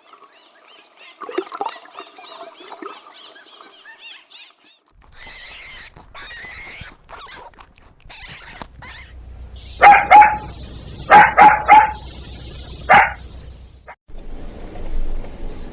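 A dog barking: two barks about ten seconds in, a quick run of three a second later, and one more a little after, preceded by quieter, indistinct animal sounds.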